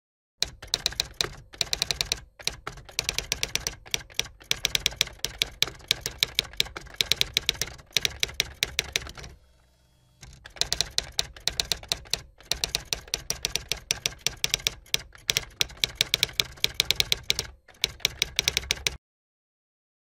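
Typing sound effect: a fast, steady run of key clicks, with a short pause about halfway through, stopping about a second before the end.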